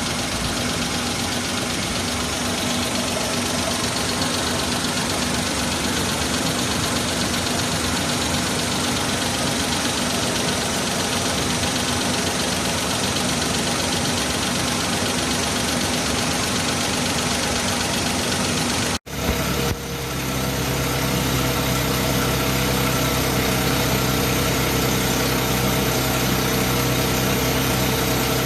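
Suzuki Jimny JA11's small turbocharged three-cylinder engine idling steadily, the engine whose noise is traced to the exhaust manifold and turbocharger. About two-thirds of the way through, the recording cuts to another take of the engine idling, with a steadier, more even tone.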